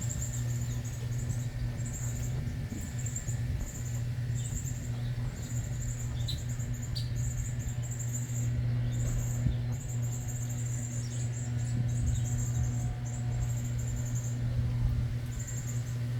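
Rapid high-pitched chirping trills in short bouts, repeating over and over, over a steady low hum.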